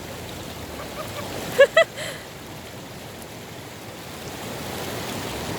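Valley stream water rushing steadily. About a second and a half in come two short high-pitched vocal sounds in quick succession.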